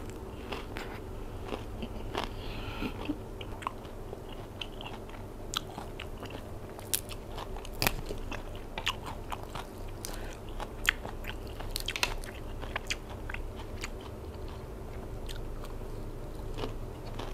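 Close-up eating sounds: a person biting and chewing crunchy raw vegetables with spicy silkworm-pupa salad, with scattered sharp crunches, the loudest near the middle.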